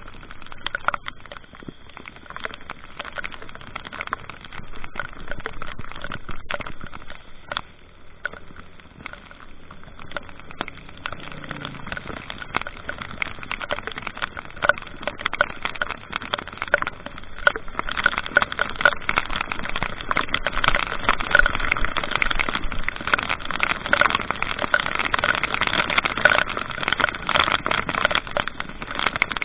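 Steady road and wind noise of a moving vehicle on tour, with many small ticks and crackles, growing louder a little past halfway through.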